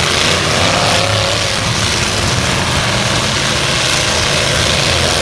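Engines of several full-size demolition derby trucks running together, loud and dense, with one engine's pitch rising and falling around a second in.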